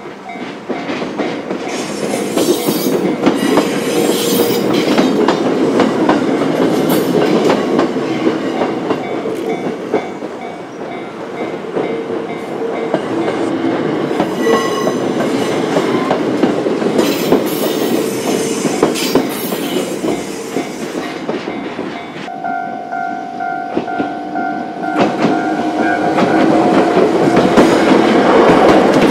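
A Choshi Electric Railway train passing over a level crossing, its wheels clattering on the track, while the crossing's electronic warning bell rings. About two-thirds of the way through the sound cuts suddenly to another crossing: the bell rings clearly on its own before a second train passes close by, growing louder near the end.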